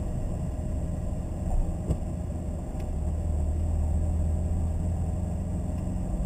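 BMW Z3's engine and road noise heard inside the cabin while driving: a steady low drone that grows a little stronger about three seconds in.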